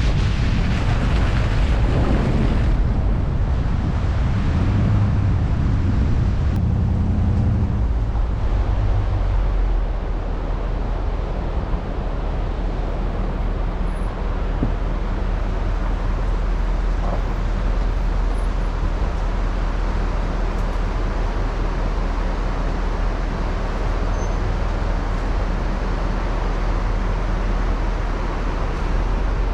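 Steady rush of a river running over rapids. A low hum sits under it for the first several seconds and stops about eight seconds in.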